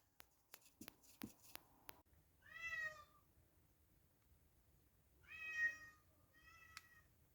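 A domestic cat meows three times: a meow about two and a half seconds in, a longer one about five and a half seconds in, and a short one about a second later. A few faint clicks come before the meows.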